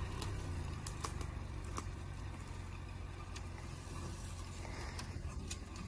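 Mercedes-Benz GLK260 SUV's engine running steadily under a low rumble as the car works slowly on a mud slope, with a few scattered clicks over it.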